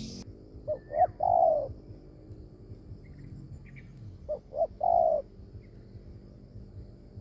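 Spotted dove cooing: two phrases about three seconds apart, each two short notes followed by one longer note.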